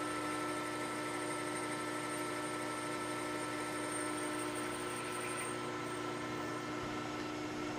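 Metal lathe running steadily, its motor and spindle making a constant hum with a few steady tones over a hiss. A faint high whine stops about six seconds in.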